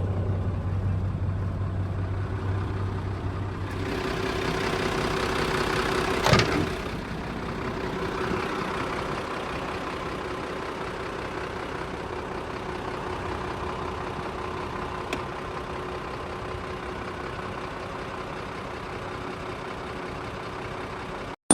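Sinotruk WD615.47 inline-six turbo diesel of a HOWO 6x4 dump truck running steadily at idle. The sound shifts about four seconds in, and there is a single sharp knock a couple of seconds later.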